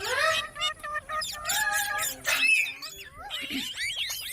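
Pet parrot chattering and calling: a run of quick chirps and whistles that swoop up and down in pitch, with a longer held call about two seconds in.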